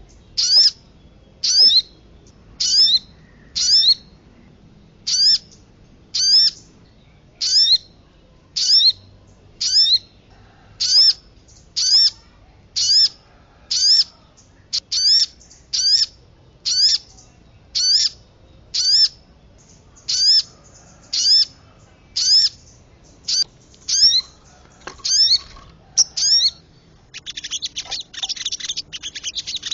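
Bird-lure recording of sogon calls: one short, sharply rising high note repeated about once a second. Near the end it changes to a rapid, dense twittering chatter, the agitated kemade call of the lure mix.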